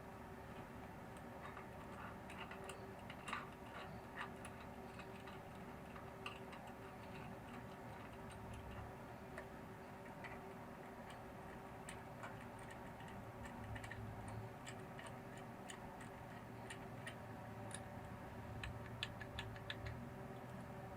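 Light, scattered clicks and taps, coming more often near the end, over a steady hum.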